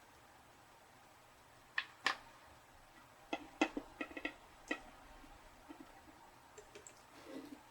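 Light, sharp clicks and taps of small tools and parts being handled while a wire is resoldered onto a model locomotive truck, about nine scattered between two and five seconds in, with a few fainter soft knocks near the end.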